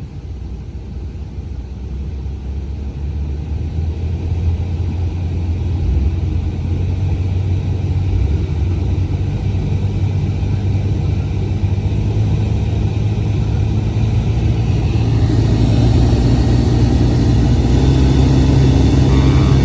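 BMW 7 Series (F02) air-conditioning blower fan being stepped up from low speed, its low drone growing louder in steps as the speed is raised. The mechanic suspects the blower itself is faulty, since the noise rises and falls with fan speed.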